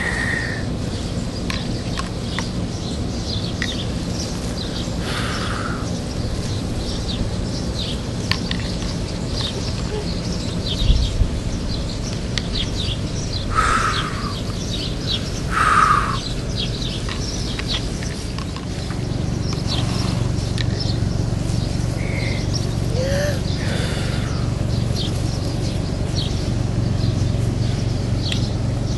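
Birds calling outdoors: small chirps scattered throughout, with a few louder harsh calls, two of them close together past the middle, over a steady low background noise.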